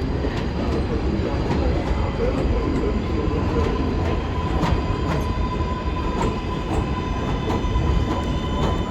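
New York City subway train running through the station: a steady rumble with wheel clicks over the rail joints roughly twice a second, and a steady high tone joining about three seconds in.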